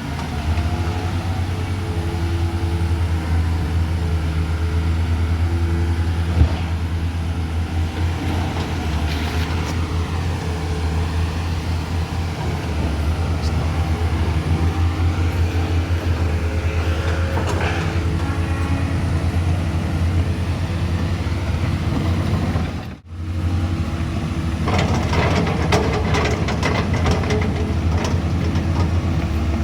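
A vehicle engine running steadily with a low hum. It drops out briefly near the end, and a spell of rattling and clicking follows.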